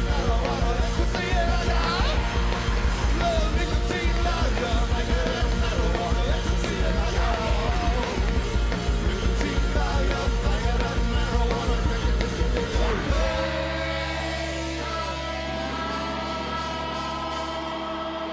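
Live hard-rock band playing loud and driving, with drums and distorted guitars. About two-thirds of the way through, the beat stops and a final chord is left ringing, with gliding guitar tones over it: the end of a song.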